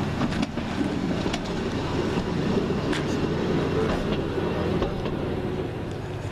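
Class 139 railcar of the Stourbridge Shuttle running into the platform: a steady low mechanical rumble with a few scattered clicks.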